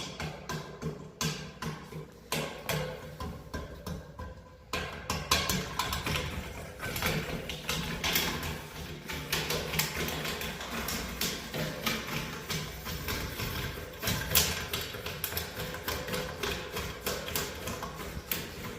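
Steam radiator making loud banging noise: rapid, irregular knocks and clanks, fewer for the first few seconds, then coming thick and fast from about five seconds in.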